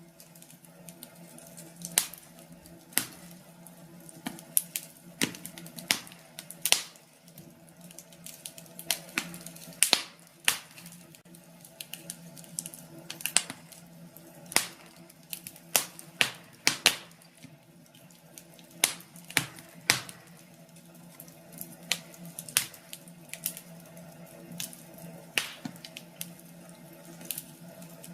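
Wood fire crackling in a fireplace: irregular sharp pops and snaps, one to a few a second, over a faint steady hum.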